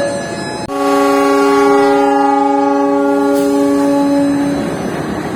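A train horn sounding one long chord-like blast. It starts abruptly about a second in, holds for about four seconds and then fades.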